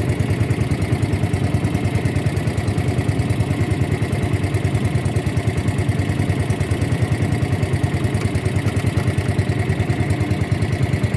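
Boat motor running steadily at an even speed, with a fast, regular throb.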